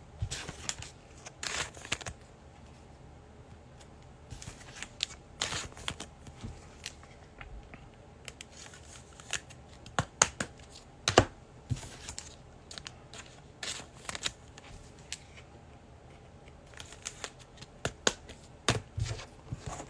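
Trading cards and their packaging being handled at close range: scattered soft rustles and sharp little clicks and snaps, with a few louder snaps about ten and eleven seconds in.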